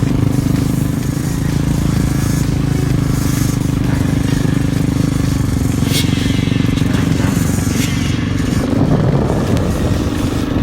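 Motorcycle engines running steadily with an even, low drone. About eight seconds in the sound turns rougher and noisier.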